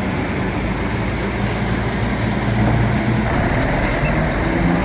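Bulldozer's diesel engine running with a steady low drone, its tone shifting slightly partway through.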